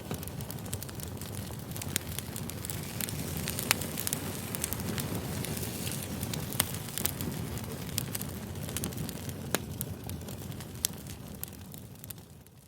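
Campfire crackling: a steady low rush of burning wood with sharp snaps and pops scattered through it, fading out near the end.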